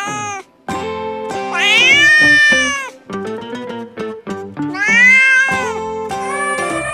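A cat meowing twice, two long drawn-out meows that rise and fall in pitch, over background music.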